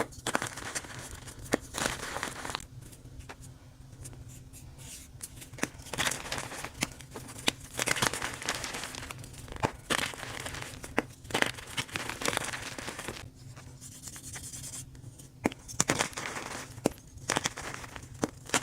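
Dyed gym chalk blocks being crushed, a dry crunching and crumbling with irregular sharp cracks and two short lulls.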